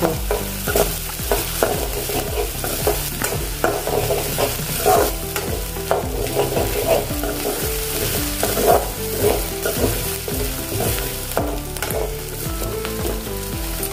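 Ginger-garlic paste and onions sizzling in hot oil in a pan, stirred with frequent short scrapes and clicks against the pan.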